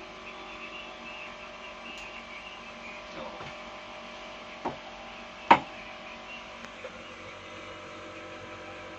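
Steady electrical hum, with a sharp knock just before the middle and a louder one about half a second later.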